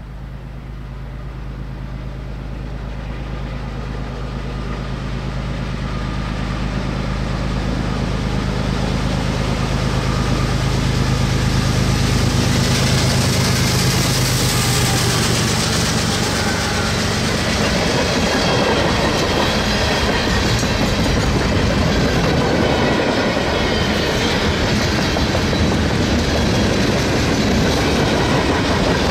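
Freight train passing. The diesel locomotive's engine hum grows louder as it approaches and goes by about halfway through. Then the freight cars roll past with steady clattering of wheels on the rails.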